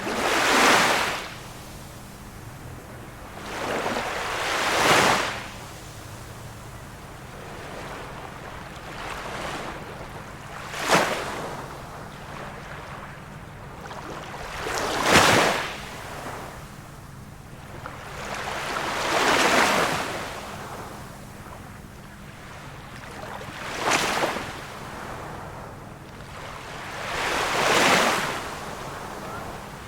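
Small waves of a calm sea breaking and washing on the shore, one swell of surf about every four seconds, each rising and then fading away.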